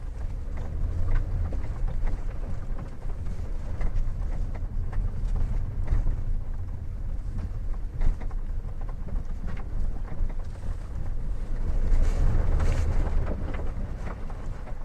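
2016 Hyundai Tucson TL driving over uneven road: a low rumble with scattered short knocks and creaks. This is the creak and noise over bumps that the owner reports as a fault, and it gets louder about twelve seconds in.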